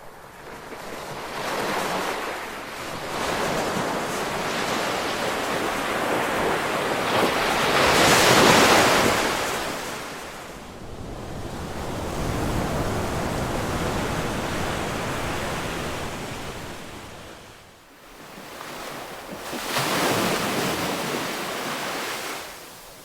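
Ocean waves breaking and washing ashore in slow surges. The loudest crash comes about eight seconds in, with another long swell in the middle and a shorter one near the end.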